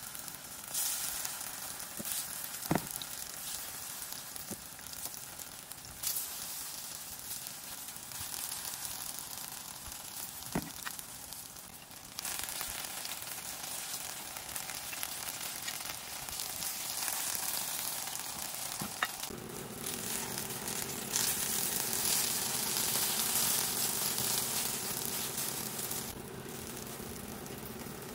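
Battered eggplant slices sizzling as they pan-fry in oil, growing louder from about halfway, with a few light sharp clicks.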